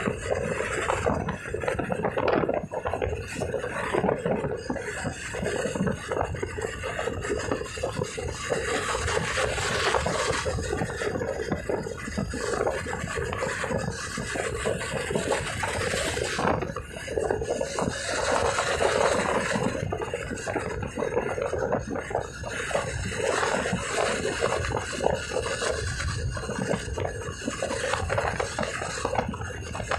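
Riding noise on a Honda TMX 125 motorcycle: wind rasping and rubbing over the microphone, with the engine running underneath, steady and unbroken.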